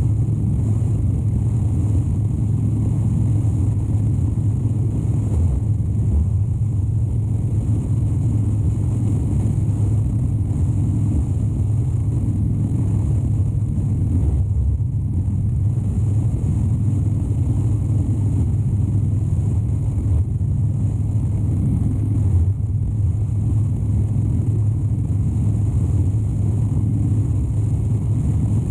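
2013 Harley-Davidson Dyna Wide Glide's 103 cubic inch V-twin running steadily while the motorcycle is ridden, a constant low drone with only slight dips in level.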